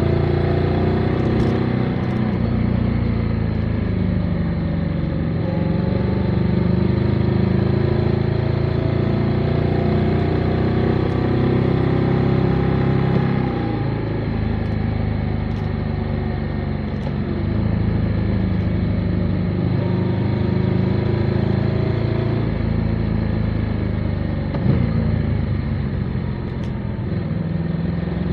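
Motorcycle engine running under way, its pitch rising and falling as the rider works the throttle through the curves, with a dip about halfway through where the engine note drops off. A couple of small clicks near the end.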